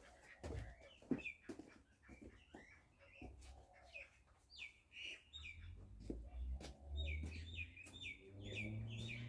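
A bird chirping repeatedly, ending in a quick run of six or seven chirps near the end, among scattered clicks and a low rumble in the second half.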